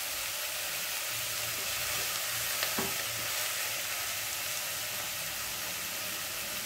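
Food sautéing in hot oil in a pan, a steady sizzle, with a brief clink of a utensil about two and a half seconds in.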